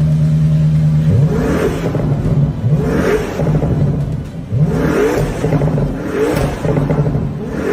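Toyota GR GT's twin-turbo V8 engine holding a steady note, then revving in several rising sweeps that each climb in pitch and drop back, as in hard acceleration through the gears.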